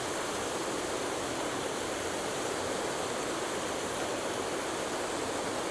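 Steady rushing of water pouring through a pond spillway into a large pool.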